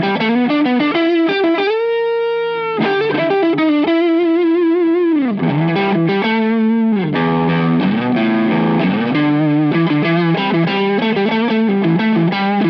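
Overdriven electric guitar with single-coil pickups, played through an Olinthus Cicada overdrive pedal, a TS808 Tube Screamer-style circuit. It plays a riff of sustained notes, some shaken with vibrato, and one note bends downward about five seconds in.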